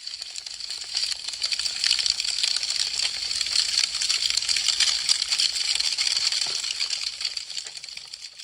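Wood fire crackling, a dense run of small snaps and pops that fades in during the first second or so and fades out near the end.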